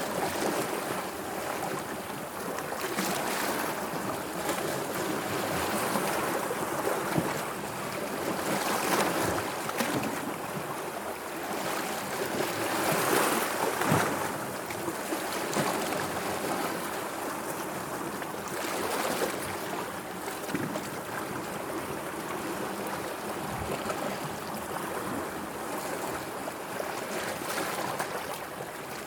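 Sea waves washing in and lapping, a continuous rush of water that swells and eases every few seconds, loudest a little before the middle.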